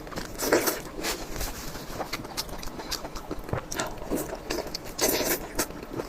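Close-miked eating: a person biting and chewing food in irregular bursts, loudest about half a second in and again near the end.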